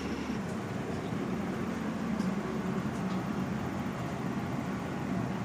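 Steady rumble and rattle inside a passenger train carriage on the move, with a few faint clicks.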